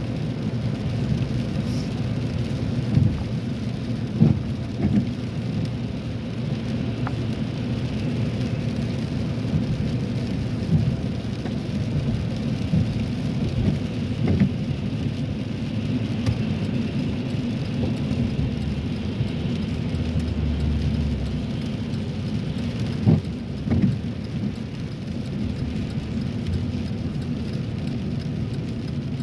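Car driving on a wet road, heard from inside the cabin: a steady low rumble of tyres and engine with the hiss of rain and road spray, and a few short thumps, the strongest around 4 s and 23 s in.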